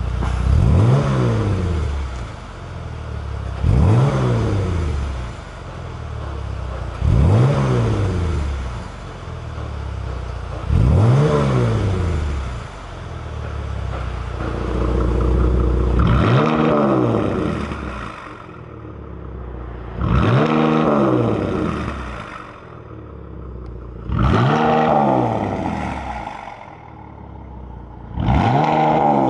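Jeep Grand Cherokee's 3.6-litre V6 blipped eight times from idle through an aftermarket variable-valve dual-muffler exhaust, each rev climbing and falling back over a second or two. The last four revs have a brighter, raspier edge than the first four.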